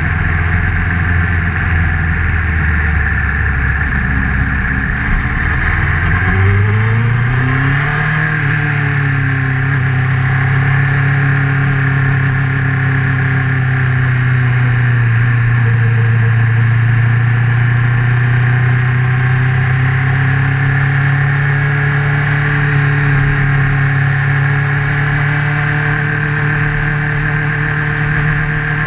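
Honda CBR1000RR's inline-four engine running as the motorcycle is ridden, recorded from a GoPro mounted on the bike. It revs up once, about six to eight seconds in, then holds a steady pitch.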